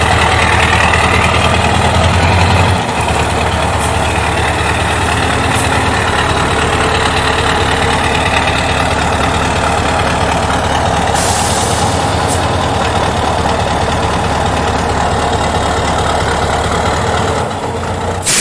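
Scania 143H truck's V8 diesel engine running steadily, dropping from a faster speed to idle about three seconds in. A brief hiss comes partway through.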